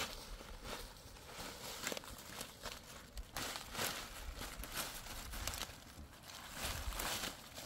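Irregular rustling and soft knocks, like steps and handling of things outdoors, a little louder from about three and a half seconds in.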